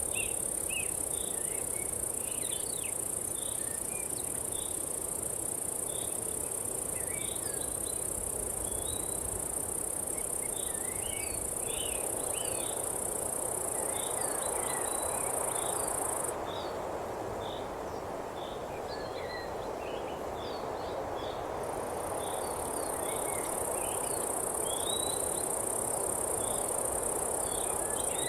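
Nature ambience: a steady, high-pitched insect trill that stops about halfway through and comes back about five seconds later, with many short bird chirps throughout over a steady low rushing noise.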